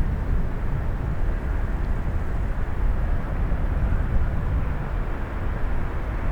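Jet airliner engines making a steady, low rumble.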